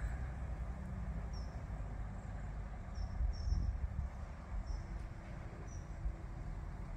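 A bird chirping repeatedly, short high notes about once a second, over a steady low rumble.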